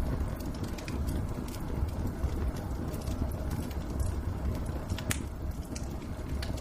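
Wood fire in a fireplace crackling, with irregular pops and snaps, a sharper one about five seconds in, over a steady low rumble.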